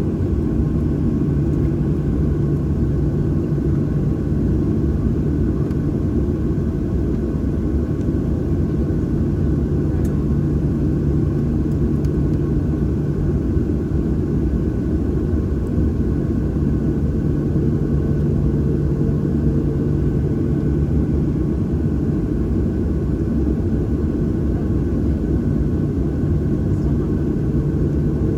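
Cabin drone of a Boeing 737-800's CFM56-7B turbofan engines heard from a seat behind the wing: a steady low rumble with a held hum, no change in pitch.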